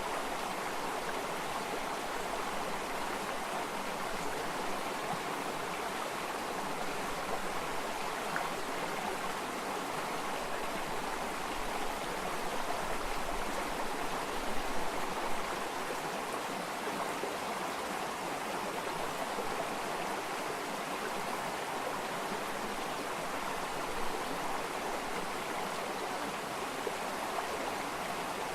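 Flowing stream water, a steady rush with small swells now and then.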